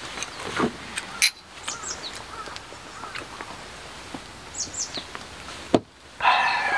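A bird chirping a few short times over a steady outdoor background, with a few light clicks of tableware and one sharp click near the end.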